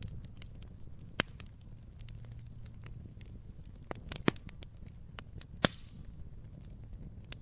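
Wood fire crackling: irregular sharp pops and snaps, the two loudest a little past the middle, over a steady low rumble.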